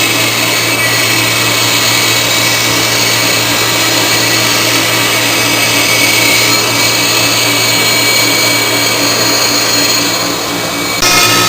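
CNC router running, a steady loud mechanical whir with a constant low hum, typical of a spindle motor at speed. Near the end it dips briefly and then comes back louder with a changed tone.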